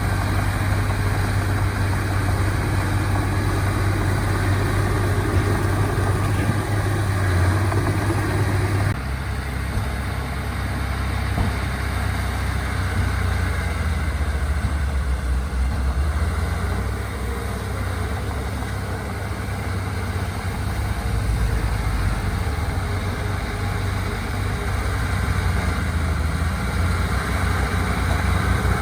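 Diesel engines of heavy earthmoving machinery running steadily at a low hum. The engine note changes abruptly about nine seconds in.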